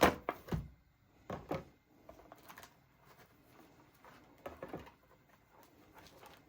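A model train coal car being unboxed by hand: scattered knocks, taps and rustles of its box and packaging.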